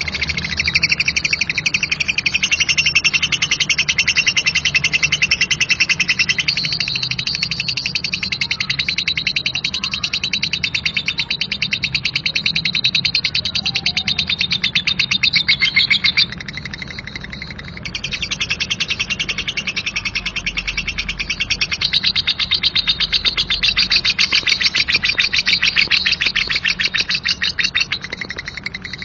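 Lovebird giving its long, coarse 'ngekek' chatter: a rapid, unbroken run of harsh, high-pitched notes. It drops away for about two seconds just past the middle, then resumes.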